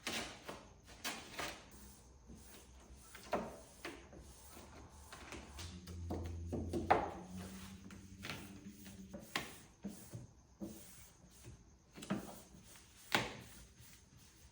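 Scattered knocks and clicks of hands and tools at work, irregularly spaced, with a brief low hum about six seconds in.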